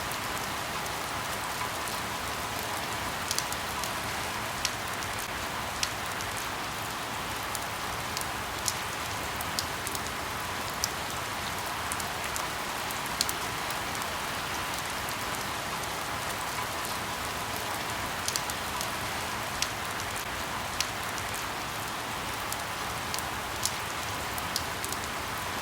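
Steady rain falling on leaves: an even hiss with scattered sharp ticks of individual drops.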